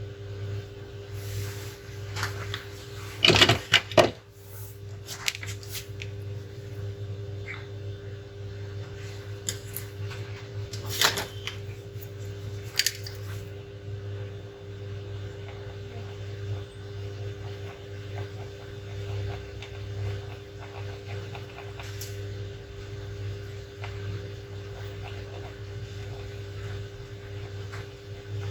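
A steady electrical hum from the bench equipment, with a few sharp clicks and taps of tools on the workbench: a quick cluster a few seconds in, and single taps near the middle.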